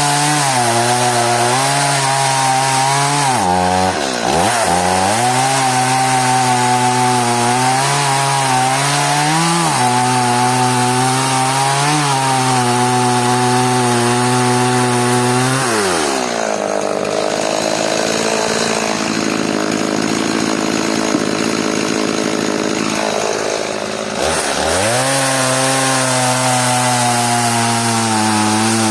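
Stihl MS180 two-stroke chainsaw sawing through hard elm, its engine pitch wavering under the load of the cut. About halfway through, the engine falls to a lower speed for some eight seconds, then revs back up to full speed and cuts on.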